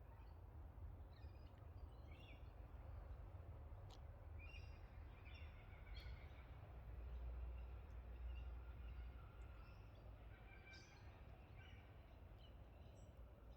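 Faint birds calling outdoors: short, scattered chirps every second or so over a low, steady rumble.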